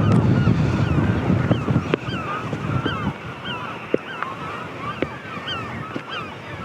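A flock of gulls calling, with many short, overlapping cries. Wind buffets the microphone, heaviest in the first couple of seconds before it eases.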